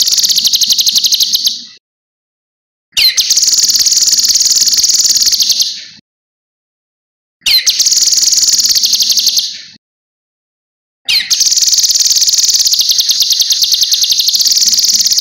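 Cucak kinoi songbird singing loud, high song phrases in clear repeated bouts. Each phrase opens with a quick downward-sweeping note and runs into a fast, shrill trill for two to three seconds, then breaks off, with about a second of silence between phrases.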